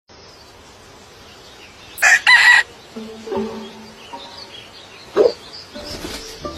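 A chicken calling: two loud, short, pitched calls about two seconds in, some softer low clucking notes after them, and another short call a little after five seconds.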